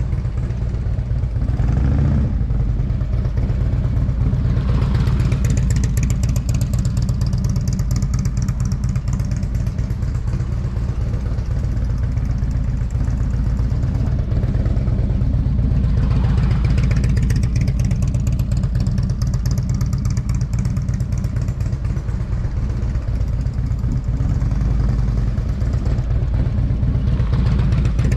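Motorcycle engine running under a steady low rumble, revving up and easing off three times, about every ten to twelve seconds.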